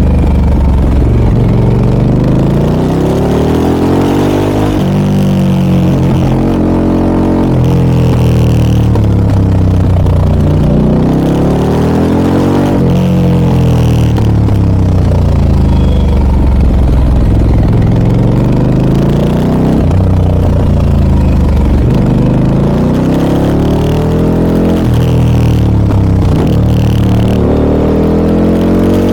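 Harley-Davidson Pan America 1250 Special's V-twin with a Scorpion aftermarket exhaust, under way, rising and falling in pitch again and again as the throttle is opened and closed.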